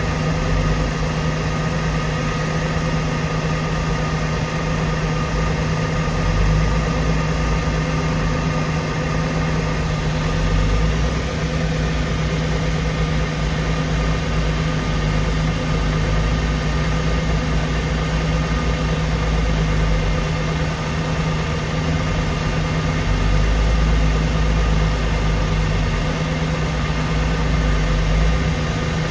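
An engine running steadily at a constant speed, a droning hum with a low rumble that comes and goes.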